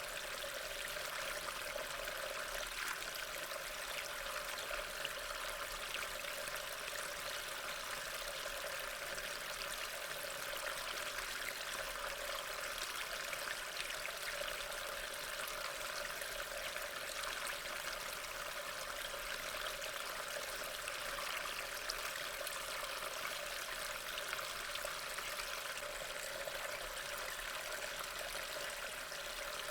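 Steady rain, an even wash of many fine drops that does not change.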